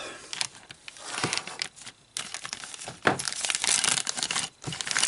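Plastic parts bag crinkling and rustling as it is handled and opened, in irregular bursts that grow busier in the second half.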